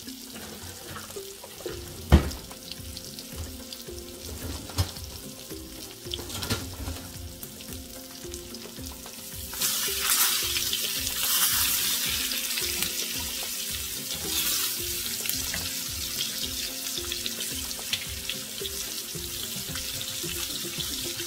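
Sesame-crusted tuna steaks sizzling in butter in a frying pan. The sizzle grows louder about ten seconds in, as the steaks are turned over with a spatula. A sharp knock comes about two seconds in, and background music plays underneath.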